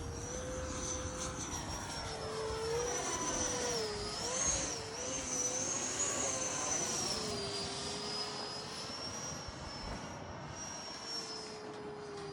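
Radio-controlled Freewing Eurofighter jet's electric ducted fans whining in flight, the high whine and a lower tone wavering up and down in pitch as it manoeuvres. It grows louder as it passes closer, about halfway through, then fades slightly.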